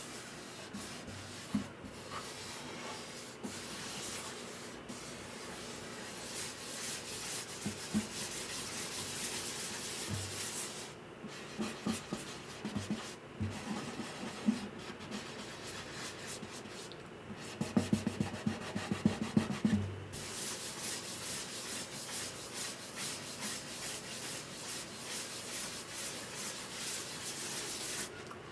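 Hand sanding of guitar wood: sandpaper rubbed back and forth in quick strokes, with a few brief pauses and a cluster of light taps about two-thirds of the way through.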